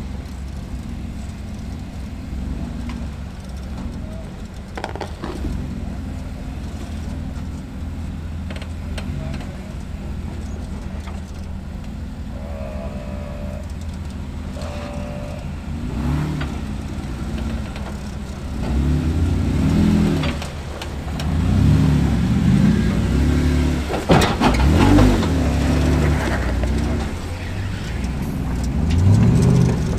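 Off-road Jeep engine running low and steady, then revving up and down again and again through the second half under throttle on the trail.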